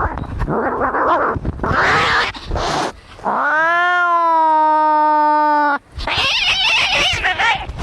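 Angry cats caterwauling in a fight: harsh, ragged screeches, then one long pitched yowl about halfway through that rises and holds for over two seconds before cutting off, then more harsh screeching.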